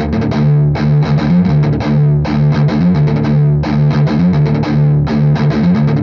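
Distorted electric guitar in drop D playing a tight palm-muted riff of triplet hammer-ons and pull-offs. A low note is chugged repeatedly and broken by quick runs of hammered and pulled notes that resolve the riff.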